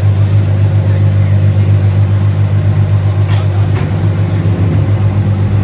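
Car engine idling with a steady low rumble, its pitch shifting slightly about four and a half seconds in. A single sharp click sounds about three and a half seconds in.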